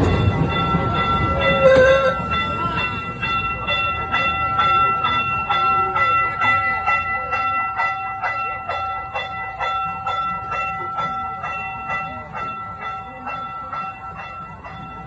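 Small gas-powered replica steam ride train running on its track: a steady high-pitched tone is held throughout, over a regular clacking about three times a second. There is a brief loud sound about two seconds in, and the whole fades toward the end.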